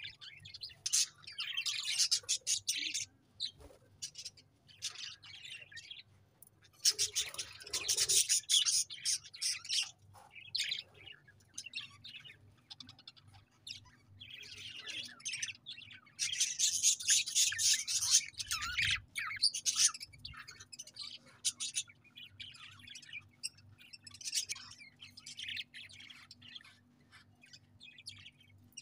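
Budgerigars chirping and chattering in bursts, several birds at once, with quieter gaps between the busy spells.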